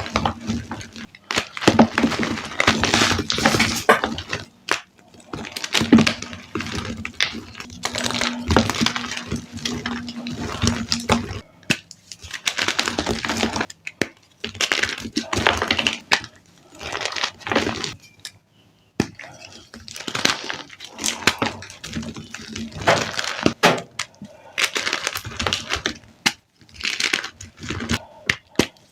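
Gritty reformed gym chalk blocks crunching and crumbling as they are crushed, in repeated bursts with short pauses and sharp cracks. A faint low hum runs under the first third.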